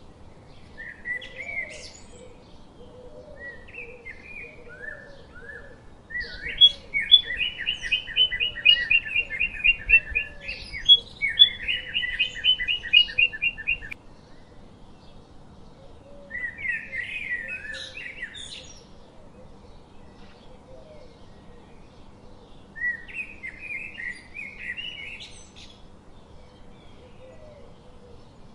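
A songbird singing in phrases of chirps and trills: short phrases at first, then a loud run of rapid repeated notes from about six to fourteen seconds in, and shorter phrases again later.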